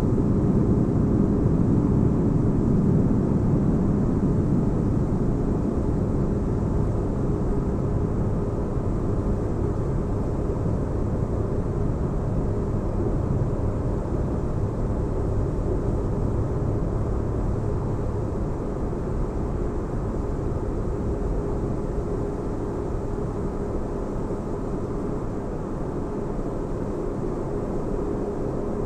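Sci-fi spaceship interior ambience: a steady deep bass rumble with faint held tones over it, easing slightly quieter toward the end.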